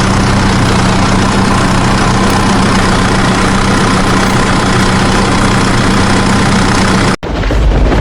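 Tractor engine idling steadily. It cuts off abruptly about seven seconds in and a deeper rumble follows.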